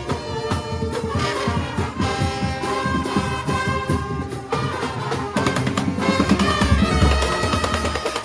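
Cape Minstrel street band playing: brass horns holding a melody over a steady, busy drum beat.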